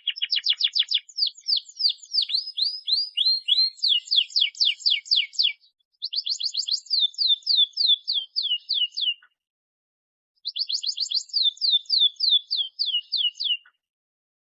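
Domestic canary singing: three song phrases of fast trilled notes, each a few seconds long, with short silent gaps between. The syllable type changes within each phrase, from rapid sweeping notes to slower downward slurs.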